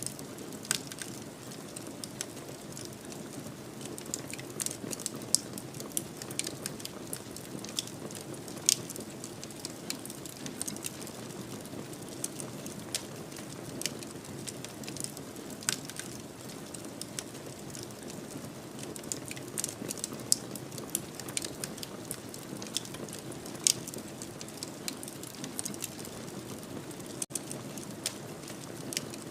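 Wood fire burning in a fireplace, crackling with irregular sharp pops over a steady low rush of flame.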